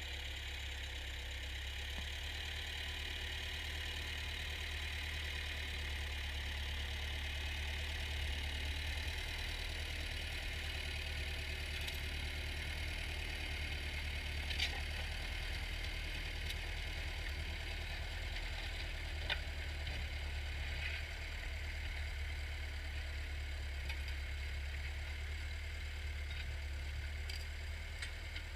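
Ford farm tractor engine running steadily, with a few faint clicks partway through.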